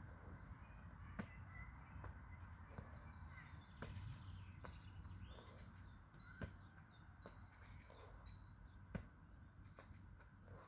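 Faint birds chirping over a low steady background rumble, with a few sharp ticks.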